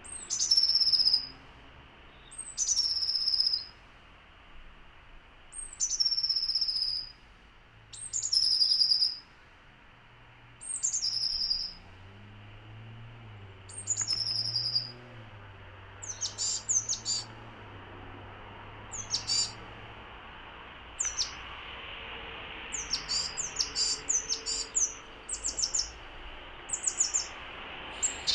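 Small songbird repeating a high call that slides downward, about once every two to three seconds. In the second half this gives way to clusters of short, quick high chirps.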